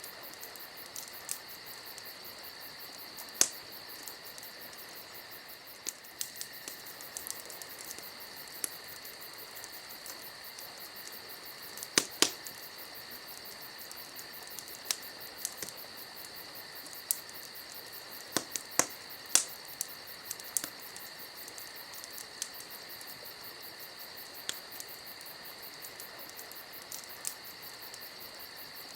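Campfire crackling: irregular sharp pops and snaps, a few of them much louder than the rest, over a steady high-pitched chirring of insects.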